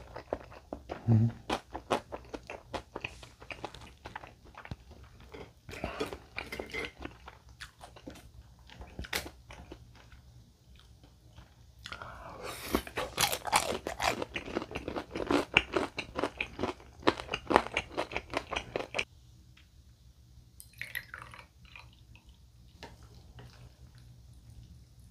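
Close-up chewing and crunching of crisp fried tangsuyuk (Korean sweet-and-sour pork) in the mouth. It is a run of sharp crunches, with the densest and loudest stretch after a fresh bite about halfway through. This stops suddenly about three-quarters of the way in, and only a few faint crunches follow.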